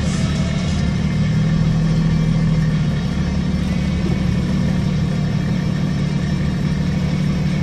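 Four-wheel-drive vehicle's engine running at low speed as it crawls along a rough dirt track, heard from inside the cab as a steady low drone, with a slight swell in the engine note about two seconds in.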